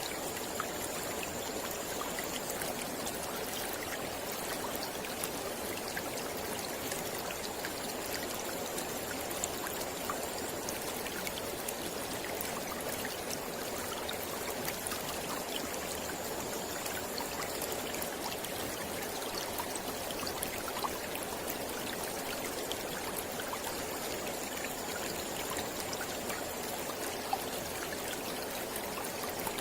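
Mountain river flowing, a steady even rush of water with fine splashing ticks throughout.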